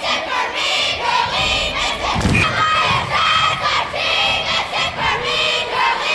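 Basketball crowd shouting and cheering, many voices rising and falling in quick repeated surges, with a single thud about two seconds in.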